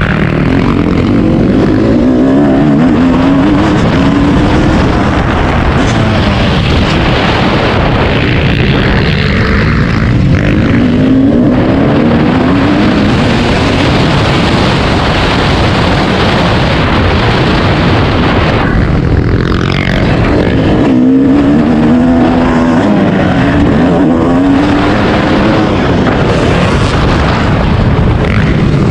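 Dirt bike engine being ridden hard, its pitch rising and falling again and again as the throttle opens and closes, over a constant rushing noise.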